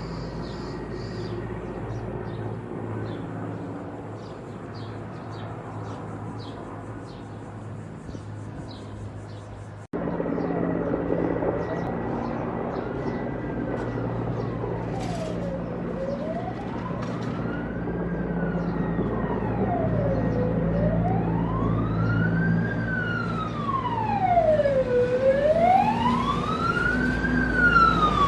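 A steady engine hum, then after a cut about ten seconds in, an emergency vehicle siren wailing slowly up and down, about one cycle every four to five seconds, over a steady engine hum and growing louder toward the end.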